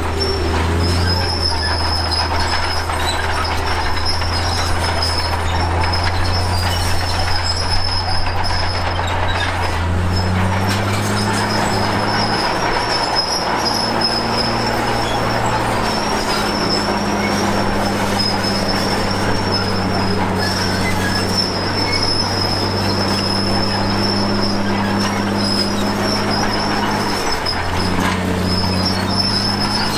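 Crawler bulldozer's diesel engine running under load. Its pitch steps up about ten seconds in and drops back near the end, over a steady high metallic squeal and clatter from the steel tracks.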